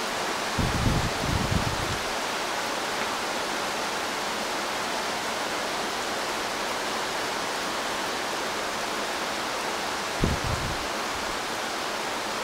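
Steady hiss of heavy rain falling on the forest leaves, with two brief low bumps, one about a second in and one near the end.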